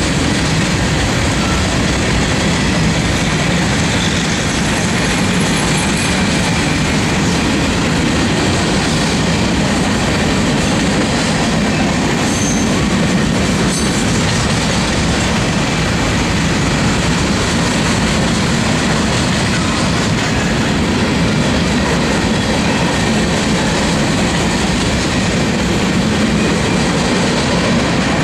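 Covered hopper cars of a Union Pacific freight train rolling past: a steady, loud noise of steel wheels running on the rails, holding even throughout.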